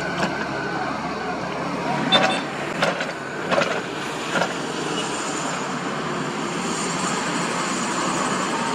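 Diesel engines of construction machinery running steadily, with four sharp metallic clanks between about two and four and a half seconds in.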